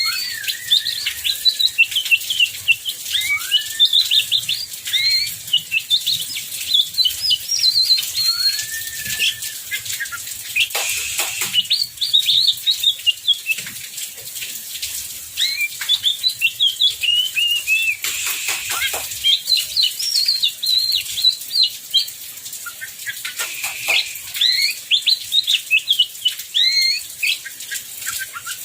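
Oriental magpie-robin singing continuously in a long, varied song of clear whistles and quick chattering phrases, with a few long downward-sliding notes. Heavy rain hisses steadily underneath.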